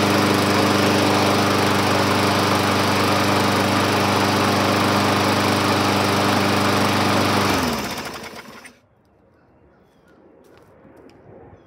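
Small engine of a 2011 Yard Machines push mower running steadily after a carburettor rebuild, then shut off about seven and a half seconds in, its pitch falling as it spins down and stops within about a second. A few faint clicks follow.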